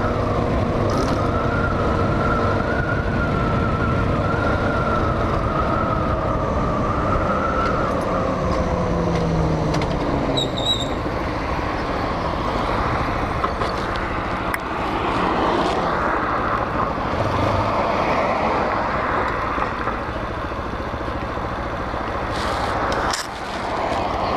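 Hawk 250 BSR single-cylinder motorcycle engine heard while riding: a steady engine note for several seconds that drops in pitch as the bike slows, then a rushing wind and road noise over the engine in the second half.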